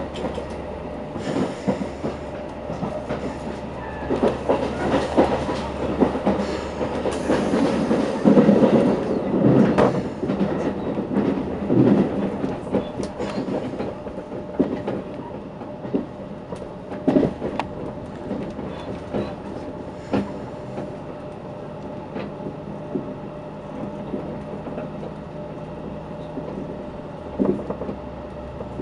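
Passenger train running, heard from inside the carriage: a steady rumble of wheels on track with irregular clacks and knocks, louder for a stretch in the first half.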